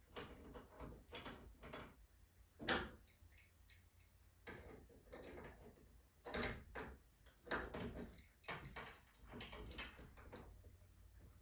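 Irregular metal clinks and knocks from hand tools and garage door torsion spring hardware being handled, with a few louder knocks among lighter jingling clicks.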